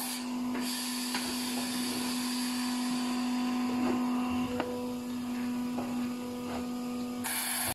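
An electric motor running steadily with a constant hum and a noisy whir, and a few faint clicks and knocks. It is likely one of the retreading-shop machines.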